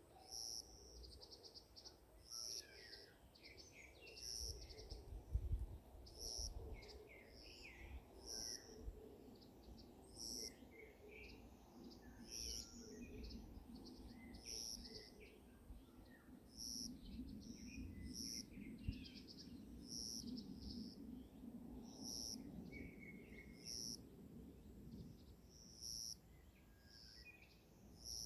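Forest birds chirping and twittering in the morning, with one short, high call repeating every second or two among scattered lower chirps. A faint low rumble lies under them.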